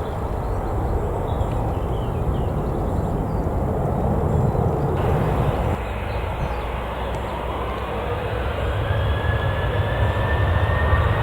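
Jet airliner engines running with a steady low rumble, then a whine that rises in pitch as the engines get louder over the last few seconds, typical of a spool-up.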